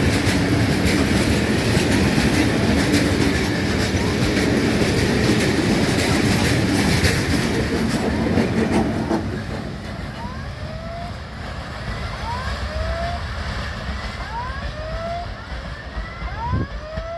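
Freight train wagons rolling past over the rails with a loud dense rumble and clatter, fading away about nine seconds in as the train clears the crossing. After that, short rising electronic-sounding tones repeat about once a second.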